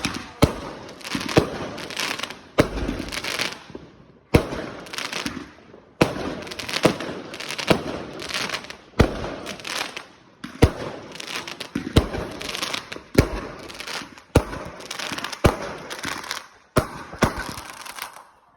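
Fireworks going off in quick, irregular succession: a string of sharp bangs, roughly one every half second to a second and a half, each trailing away before the next.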